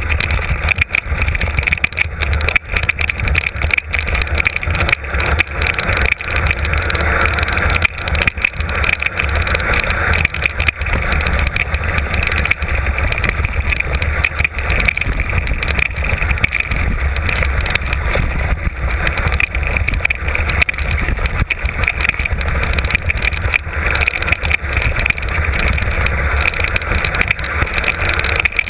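Mountain bike on a rough downhill trail heard from a camera mounted on the bike or rider: a steady loud rumble of wind and tyres on the ground, with constant rattling and knocks from the bike over rocks and bumps.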